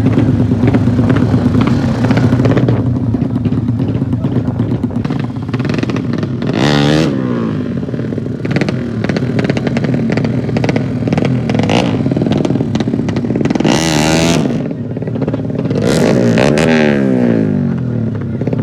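200cc motocross bike engines: one engine runs steadily close by while other bikes pass three times, about a third of the way in, again near the two-thirds mark and once more near the end.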